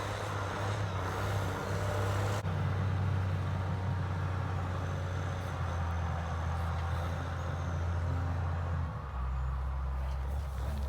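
Farm loader's engine running steadily as it hauls hay, its note dropping lower about nine seconds in.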